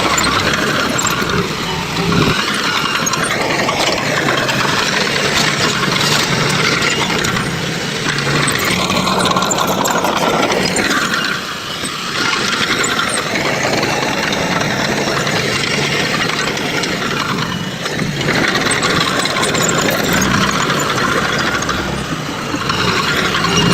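Diesel engine of heavy construction machinery running loud and continuous, with the revs rising and falling every few seconds as it works.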